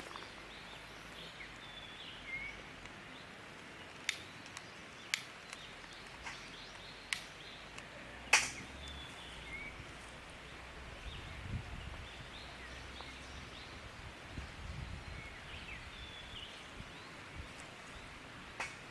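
Quiet forest ambience with a few faint short bird chirps, broken by about five sharp clicks or knocks, the loudest a little past the middle.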